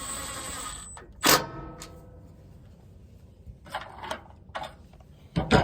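Metal tools and bolts clinking while fastening small bolts on a lawn mower engine: one sharp, ringing clink about a second in, a few lighter clicks, and another loud clink near the end. A steady hiss with a high whine stops about a second in.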